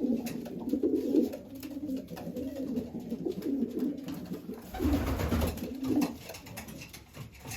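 Racing pigeons cooing, low warbling coos that overlap and go on throughout, with a brief rustling noise about five seconds in.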